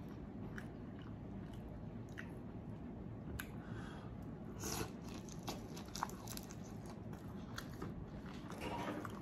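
Close-up crunching of a breaded, deep-fried jumbo shrimp being bitten and chewed, with scattered faint crisp crackles. The strongest crunch comes about halfway through.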